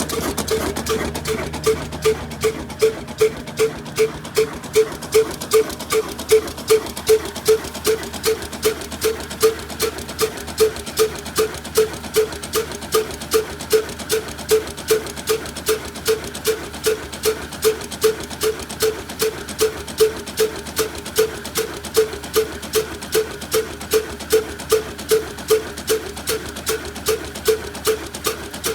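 Old diesel engine running with a slow, even beat of about two knocks a second.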